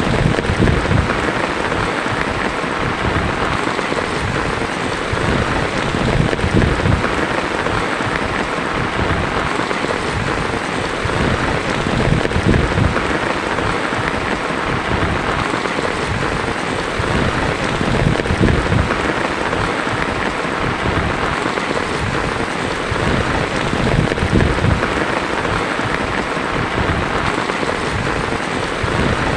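Heavy rain drumming steadily on a tin roof, with low rumbles of thunder rising and falling underneath.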